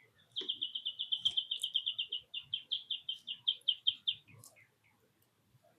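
A small songbird singing a fast trill: a run of identical high notes, about nine a second, lasting some four seconds with a short break halfway.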